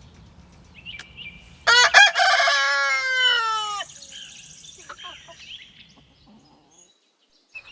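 Rooster crowing once, a single cock-a-doodle-doo lasting about two seconds that drops in pitch at the end, followed by faint clucking.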